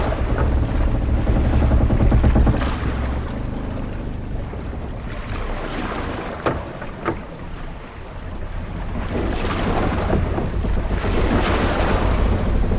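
Sailing-ship-at-sea ambience: waves washing against the hull and wind, the rumble swelling, easing a little past the middle and building again. Two brief knocks sound a little past halfway.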